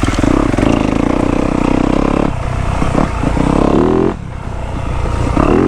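Yamaha YZ250F dirt bike's four-stroke single-cylinder engine running under throttle while riding, its pitch climbing as it revs, dropping off sharply about four seconds in, then climbing again near the end.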